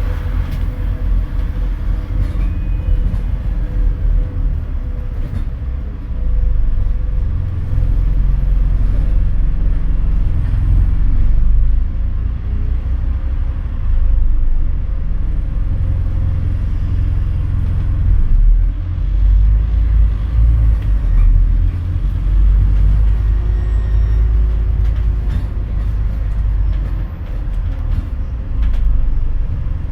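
Scania N230UD double-decker bus heard from on board while driving: a heavy, continuous low rumble of its five-cylinder diesel and drivetrain, with the engine note rising and falling now and then.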